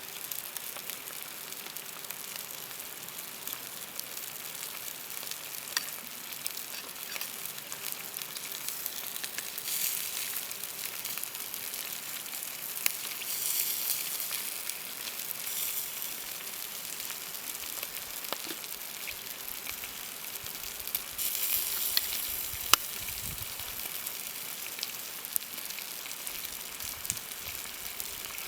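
Food frying and sizzling over a fire: a steady high hiss dotted with small pops, swelling louder a few times.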